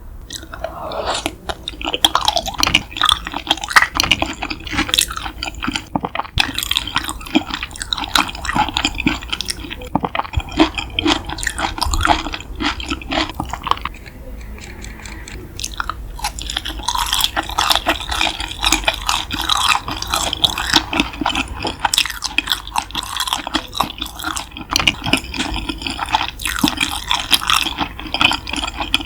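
Close-miked wet chewing and mouth smacks of someone eating yukhoe, Korean raw beef tartare, with a short lull about halfway through.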